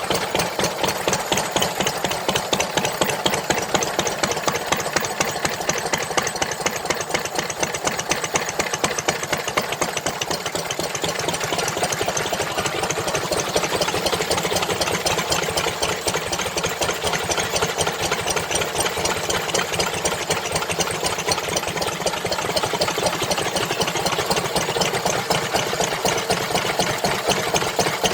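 An engine running steadily at a constant speed, with a rapid, even pulsing rhythm from its firing.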